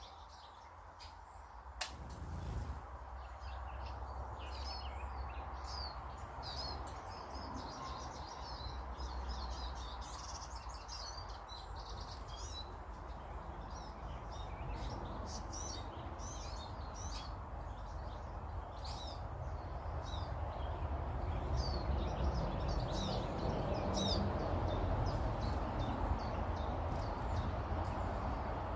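Small birds chirping and twittering, many short calls throughout, over a steady noisy rumble that grows louder after about twenty seconds. A single sharp click about two seconds in.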